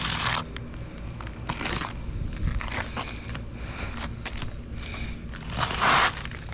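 Asphalt roof shingles being lifted and bent by hand, giving irregular crunching and crackling bursts, the loudest about six seconds in.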